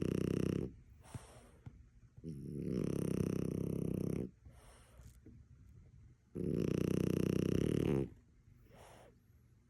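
French bulldog snoring in sleep: long, rattling snores that come about every four seconds, each lasting one and a half to two seconds, with faint breaths in between. One snore ends just after the start, and two more follow.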